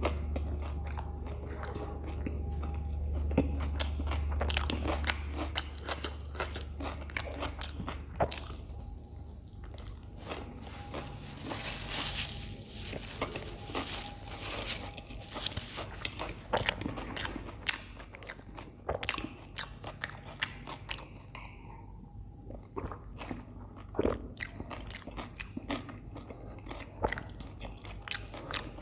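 Close-miked chewing of a toasted sandwich: many small crunches and wet mouth clicks, with a low rumble during the first few seconds.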